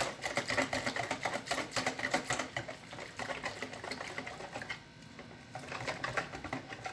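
Chickpea-flour batter being whisked rapidly in a bowl: a fast run of clicking strokes that grows quieter about halfway through.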